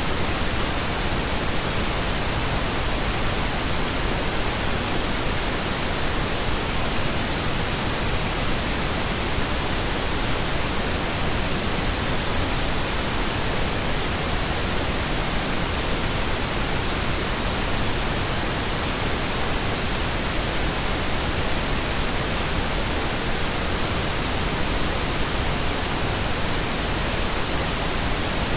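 Steady synthetic pink noise: an even, unchanging hiss spread across all pitches, with no breaks or variation.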